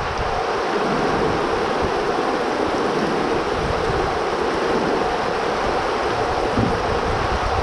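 Heavy rain pouring steadily, with strong wind buffeting the microphone in low, irregular rumbles.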